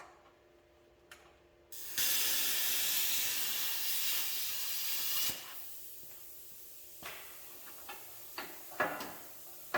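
Compressed-air hiss: a loud, steady burst of about three seconds that starts and stops sharply, followed by a fainter hiss and a few light knocks on metal.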